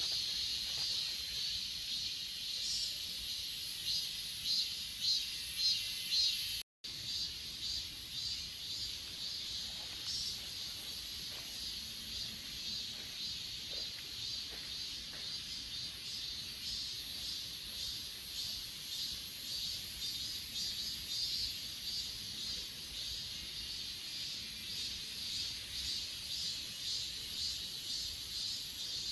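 Grass insects chirping in a dense chorus of quick, repeated high-pitched pulses. The sound cuts out for an instant about seven seconds in.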